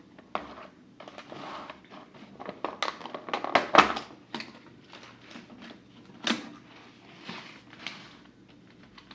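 Plastic sushi packaging being handled: a run of irregular crinkling crackles and sharp clicks, busiest about three to four seconds in, with one sharp click past the middle.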